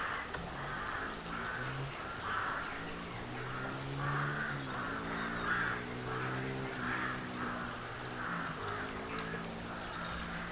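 Crows cawing over and over in woodland, harsh calls repeating about once or twice a second. Under them runs a low drone with steady pitch that shifts slowly.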